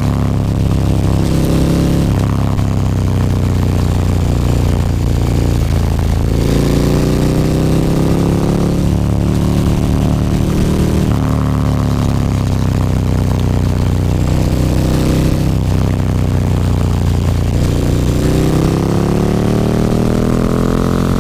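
KTM 1290 Super Duke R's V-twin through an Akrapovic slip-on exhaust, accelerating and shifting on the move: the engine note climbs and drops several times and climbs again near the end.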